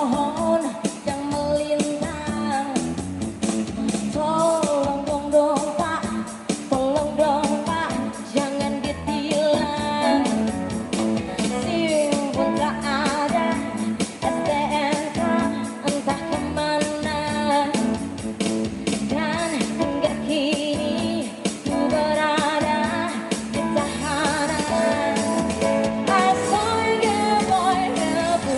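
Live pop-rock band playing, with a singer's voice over guitar and drums.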